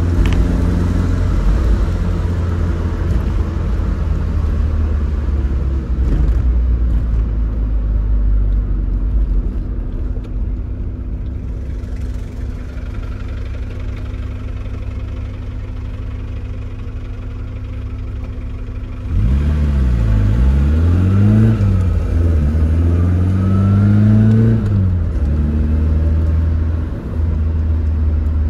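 Tofaş Doğan SLX car engine and exhaust running steadily, then revved hard up and down about three times some two-thirds of the way in before dropping back to a steady run.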